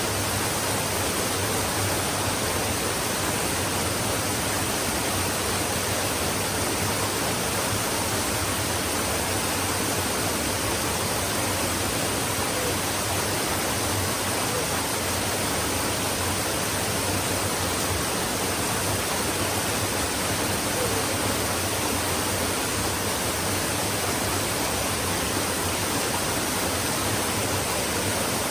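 Stream water flowing steadily, an even unbroken hiss of running water.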